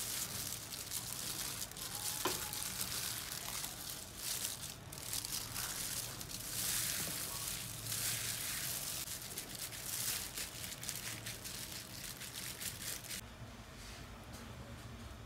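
Food sizzling and frying in a hot pan, a crackling hiss that rises and falls. It stops about two seconds before the end, leaving a faint low hum.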